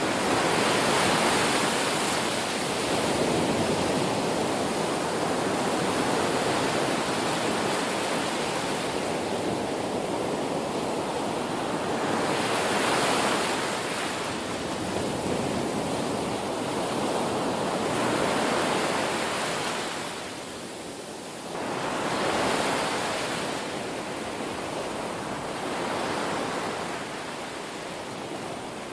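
Ocean waves breaking and washing on a shore: continuous surf noise that swells and eases every few seconds, with a brief lull about two-thirds of the way through.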